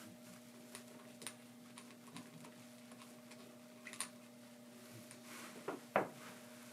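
Scattered light clicks and taps of small coffee gear being handled, with a louder clack about six seconds in, over a faint steady hum.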